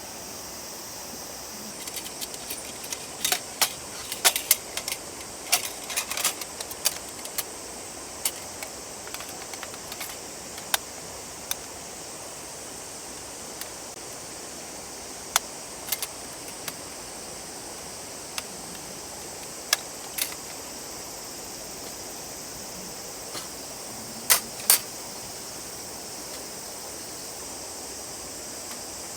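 Irregular sharp clicks and light clinks, bunched together in the first third and then scattered, with two louder ones near the end, over the steady rush of a river.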